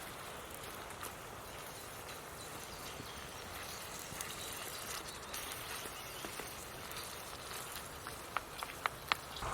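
Steady woodland background noise with scattered faint ticks, and a quick run of four sharp clicks near the end.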